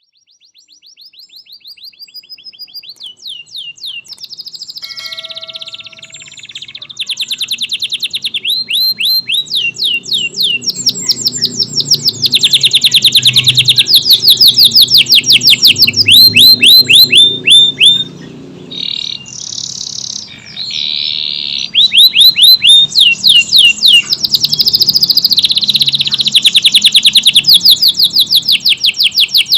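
Domestic canary singing a long, unbroken song of fast, tightly packed trills, each a rapid run of repeated high notes. It fades in over the first several seconds and then sings loudly, with only brief pauses.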